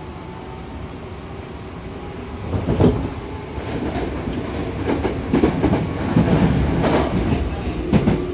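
Hankyu commuter train running, heard from inside the car by the doors: a steady rumble, then from about two and a half seconds in a run of loud, irregular clacks and knocks as the wheels cross track joints.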